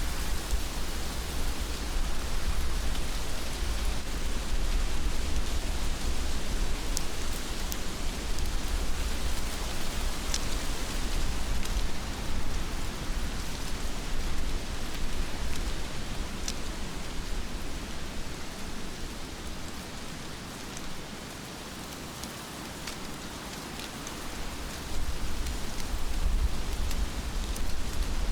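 Heavy rain falling steadily, with scattered sharper drop ticks. Under it runs a low rumble that fades about two-thirds of the way through and comes back strongly near the end.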